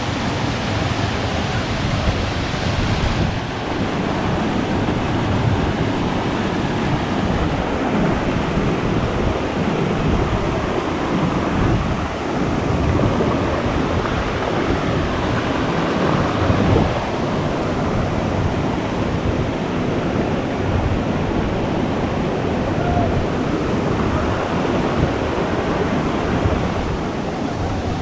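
Steady rush of falling water from a waterfall, a continuous loud roar without breaks.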